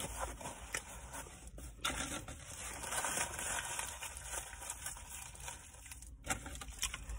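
Soft rubbing and rustling handling noises mixed with chewing, close to a phone microphone, busiest in the middle few seconds.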